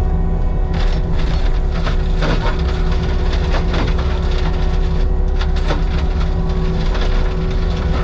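Heavy diesel machinery running steadily under load, with repeated sharp cracks and snaps of wood breaking as brush and logs are worked.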